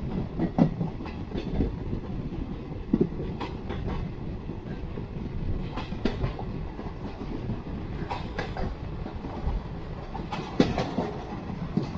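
Jan Shatabdi Express passenger train running on the track: a steady low rumble with irregular clicks and knocks from the wheels.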